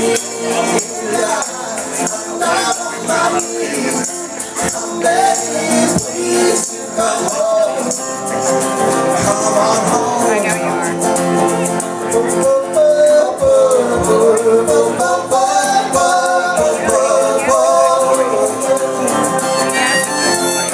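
Live acoustic music with no sung words: a wavering melody line over guitar-like accompaniment, with light rattling percussion like a shaker or tambourine.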